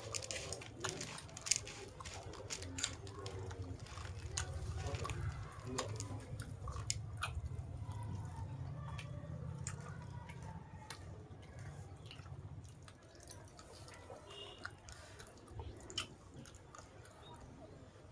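A person chewing and crunching food, beaten rice (chura) with chicken, with many short sharp clicks. A low rumble sits underneath and fades out about two-thirds of the way in.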